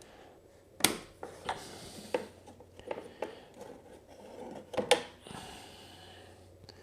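Handling sounds as the air filter is taken out of a small ATV's airbox: a string of clicks and knocks, with two sharp snaps about one second and five seconds in, and rubbing between them.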